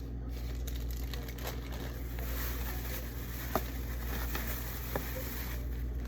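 Fruit and plastic bags being handled: light rustling with two small sharp knocks, about three and a half and five seconds in, over a steady low hum.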